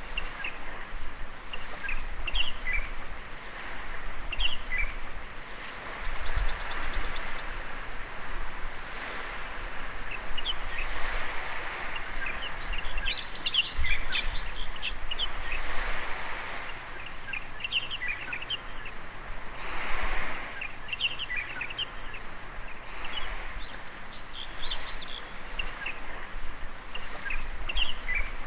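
Birds chirping and calling in short repeated phrases, with a quick trill about six seconds in, over small waves washing on the shore that swell and fade several times.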